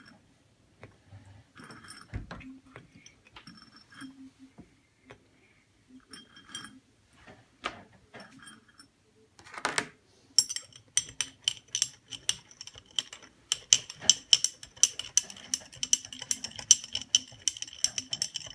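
Sugar being spooned into a teapot of hot water, with scattered light clinks and scrapes, then from about ten seconds in a spoon stirring fast, clinking against the pot several times a second with a ringing tone as the sugar is dissolved.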